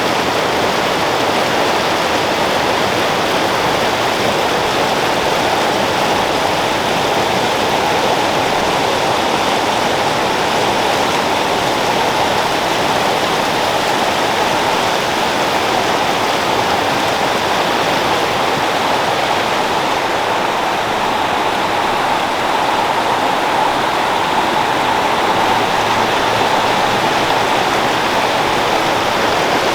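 A creek flowing steadily, its water making a loud, even rush.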